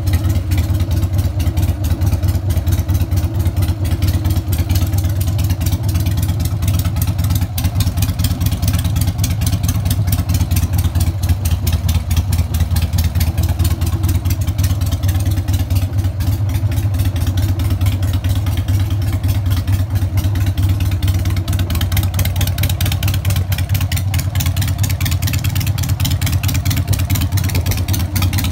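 Harley-Davidson XL883 Sportster's air-cooled V-twin idling steadily through aftermarket exhausts, a loud, even run of low firing pulses with no revving.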